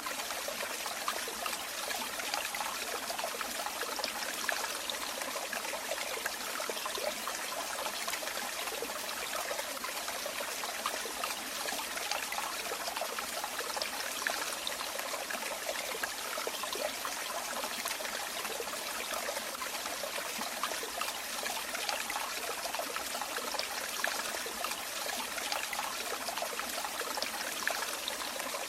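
Running water trickling and splashing steadily, like a small stream or water pouring over stones, with many fine bright splashes and little low rumble.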